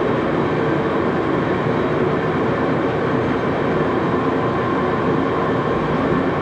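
Axelson engine lathe running steadily at about 351 RPM during a threading pass on a small 8-32 screw: an even, unbroken machine hum from the drive and gearing.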